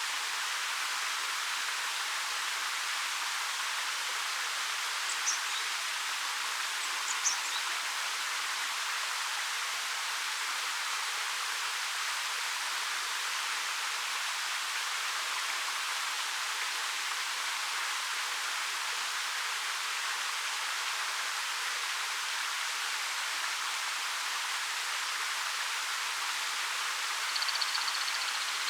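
Steady rush of a 13 m waterfall pouring over rock, an even hiss of falling water with no change in level. A bird gives a few brief high chirps about five to seven seconds in, and once more near the end.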